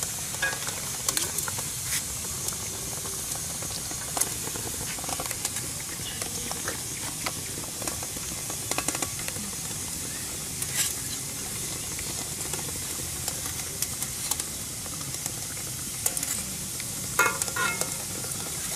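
Whole cabbage head frying in hot oil in a stainless steel wok: a steady sizzle, with scattered clinks and scrapes as metal tongs and a ladle turn it against the wok.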